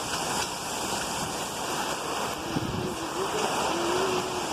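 Heavy rain pouring down: a steady rushing noise, with a faint wavering tone low in the background in the second half.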